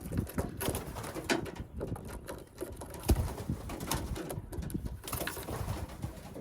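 Young racing pigeons in a loft, cooing amid scattered small clicks and scuffles, with one sharper knock about three seconds in.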